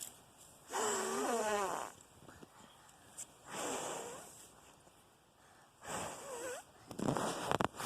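Someone blowing hard on a dying campfire to revive it, in about four long breaths a couple of seconds apart, some with a wheezy, voice-like tone. Near the end there is a burst of sharp crackles.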